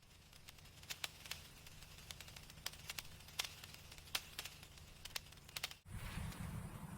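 Faint irregular crackles and clicks over a low steady hum, then an abrupt cut about six seconds in to a louder low rumble.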